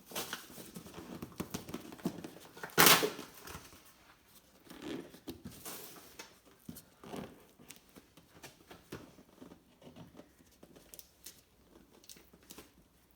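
Packaging being handled: crinkling and rustling with scattered clicks, and one loud tearing rip about three seconds in.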